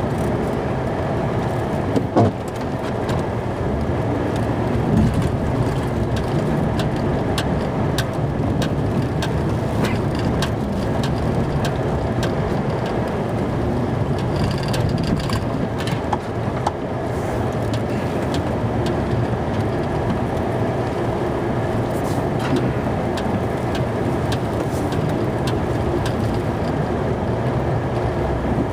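Snow-plow truck's engine running steadily while plowing, heard from inside the cab, with scattered clicks and knocks and one louder thump about two seconds in.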